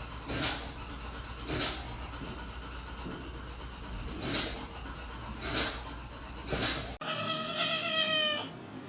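A cat's single long meow, falling slightly in pitch, near the end. Before it, short sharp sounds come about once a second over a steady low hum.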